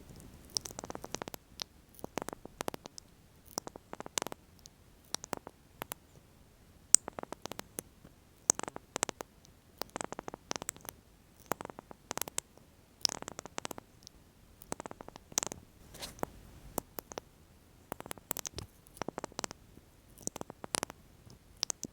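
Close-miked lip oil and applicator handling for ASMR: irregular soft clicks and short rustles, a few every couple of seconds.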